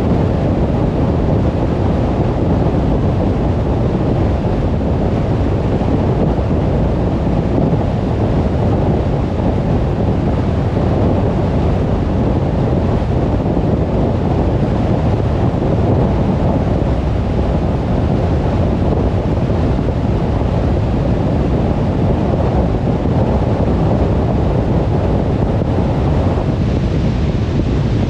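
Car driving at a steady speed: an even, low rumble of road, tyre and wind noise that does not change.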